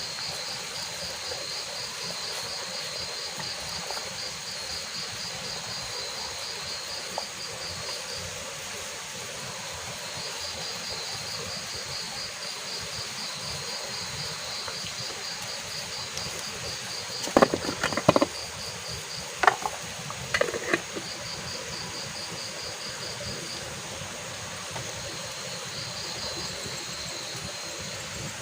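Insects chirring in a high, fast-pulsing trill that stops and starts in long stretches. About two-thirds of the way through comes a short cluster of sharp knocks and clatters, the loudest sounds.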